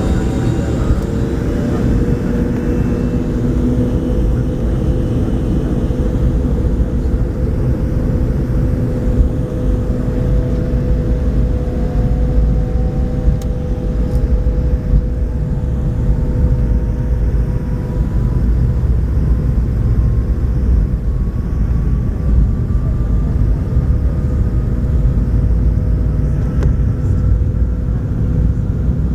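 The Pratt & Whitney JT8D turbofan engines of a McDonnell Douglas MD-82 running during its take-off, a heavy steady rumble with a steady whine. A second whine climbs slowly and evenly in pitch through the second half.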